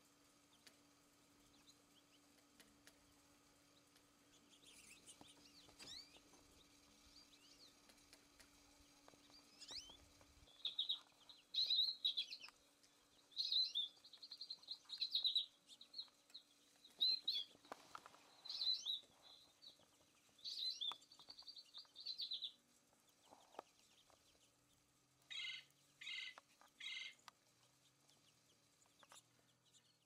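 Birds calling: a few faint high chirps at first, then repeated bursts of rapid, chattering calls through the middle, and three short calls in quick succession near the end.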